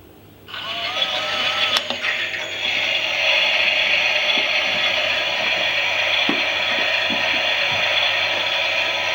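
Toy Klein Miele washing machine's small electric motor running and turning the drum. After a short pause at the start there is a wavering whine, then from about two seconds in a steady mechanical whirr with a few soft clicks.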